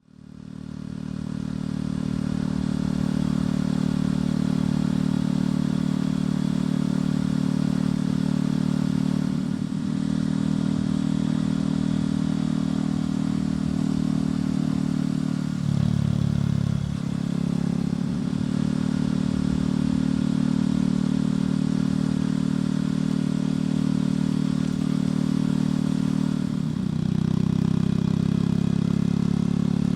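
Motorcycle engine and exhaust heard from on board while riding, running at a steady note. The engine note drops briefly and recovers about halfway through, and rises in pitch near the end.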